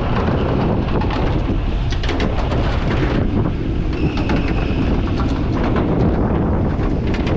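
Wind rushing over the microphone of a camera carried on a road bicycle riding at speed: a loud, steady rumble.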